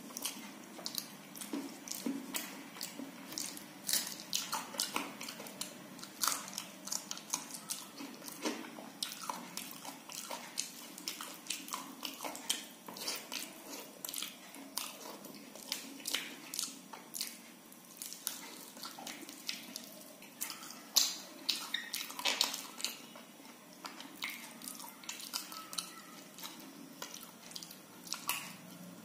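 A person chewing mouthfuls of soft khichdi eaten by hand, with wet lip smacks and a steady run of many small sticky mouth clicks.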